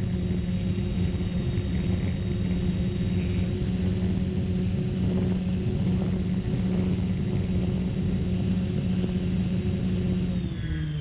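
Quadcopter drone's electric motors and propellers running with a steady whine and hum. The pitch drops just before the end as the motors slow.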